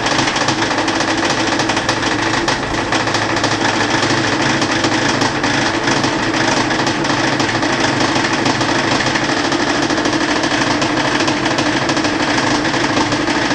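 Frigidaire front-loading washing machine spinning, making a loud, steady, rapid rattling clatter over a constant hum. It is an abnormal spin noise whose cause the owner does not know.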